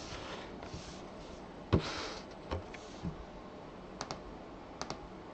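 A few faint, scattered clicks of a computer keyboard, some in quick pairs.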